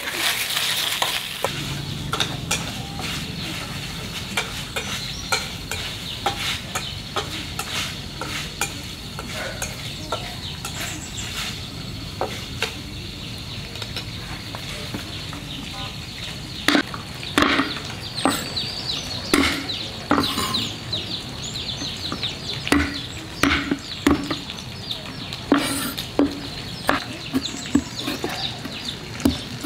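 Marinated pork belly sizzling in a steel wok as it is stirred, with light scraping clicks. From about halfway through, a cleaver chops food on a wooden cutting board in loud, irregular strokes.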